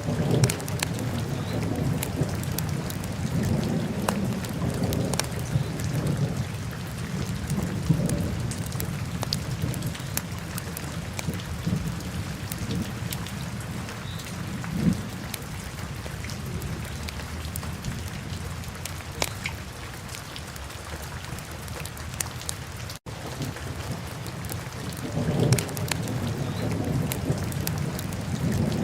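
Wood fire crackling in a fireplace, layered over steady rain and low rolling thunder that swells at the start, fades through the middle and builds again near the end. The sound cuts out for an instant a little before the end.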